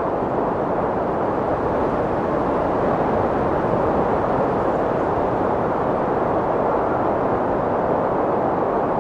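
Strong wind blowing as a steady, even rush with no gusts or breaks.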